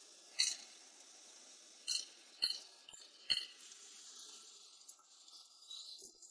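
Four short sharp clicks or knocks, scattered over about three seconds, over a faint steady hiss, with lighter crackling near the end.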